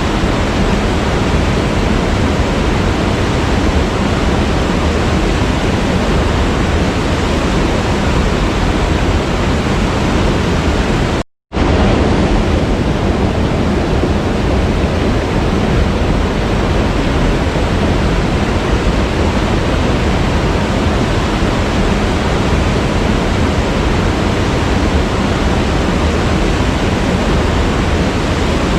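Waterfall rushing as a steady, dense roar of water. The sound cuts out abruptly for a fraction of a second about eleven seconds in, then resumes unchanged.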